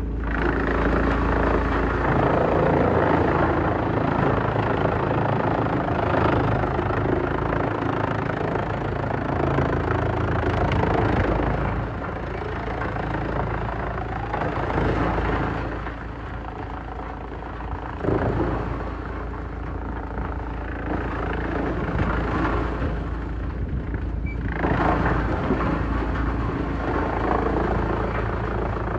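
Heavy-duty wood shredder running under load: a steady engine drone under a dense grinding, crunching noise that swells and eases as it chews through wood, dropping back for a couple of seconds about halfway through.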